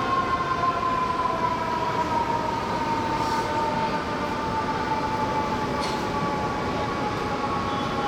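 Fire truck's mechanical siren winding down: one steady tone sliding slowly lower in pitch, over the noise of the truck and street traffic.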